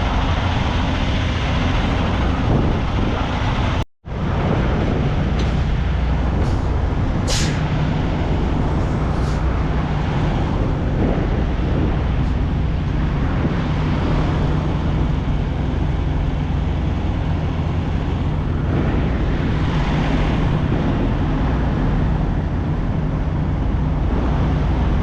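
Semi truck's diesel engine running steadily as the rig pulls forward slowly. A few short air hisses, typical of the truck's air brakes, come between about five and nine seconds in, and the sound cuts out for a moment about four seconds in.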